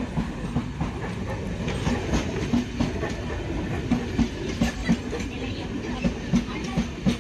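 Passenger train passing close by: a steady rumble of the coaches with the wheels knocking over rail joints in a clickety-clack, a few knocks a second.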